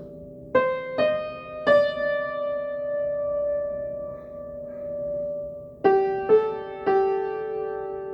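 Keyboard music with a piano-like sound. Three notes are struck in quick succession about half a second in and left to ring. Three more follow near the end.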